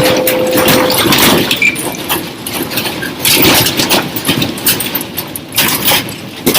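A room shaking in a strong earthquake: continuous loud rattling and irregular banging of furniture and objects over a low rumble.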